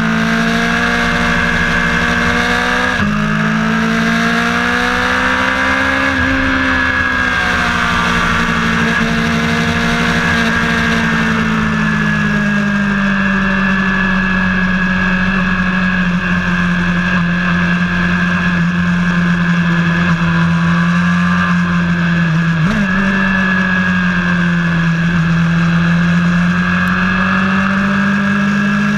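Vehicle engine running under load while lapping a race track. Its note drops abruptly about three seconds in, as at a gear change, then climbs and slowly eases down, with a quick blip of revs near the end.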